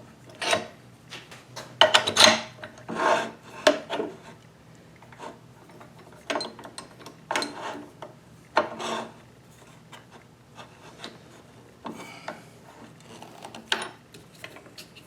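Wood being turned on a Wen mini lathe: a turning chisel scrapes the spinning workpiece in irregular rasping bursts, over the lathe motor's faint steady hum.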